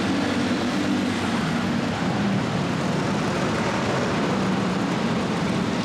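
A vehicle engine running steadily under a wash of noise, with no pass-by rise or fall.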